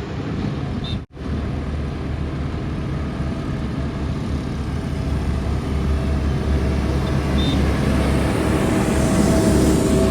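A heavy vehicle's engine running steadily with a deep rumble, growing gradually louder. The sound cuts out for an instant about a second in.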